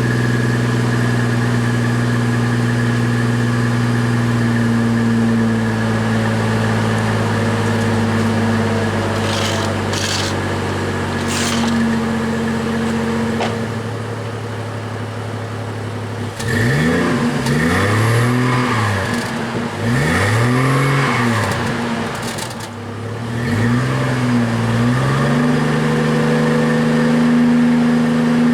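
Chevrolet Trailblazer's 4.2-litre inline-six idling steadily through its exhaust, then revved three times after about sixteen seconds, each rev rising and falling back, before settling into a steady run near the end.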